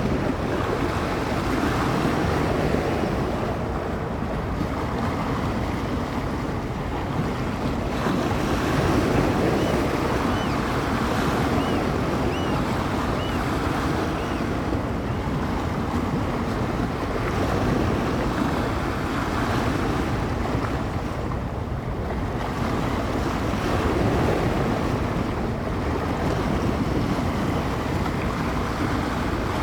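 Bay waves breaking and washing on the shore in a steady rushing wash that swells and eases every few seconds, with wind gusting across the microphone.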